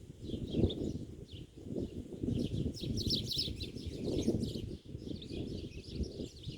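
Small birds chirping in many quick high notes, busiest about halfway through, over a steady low rumbling noise.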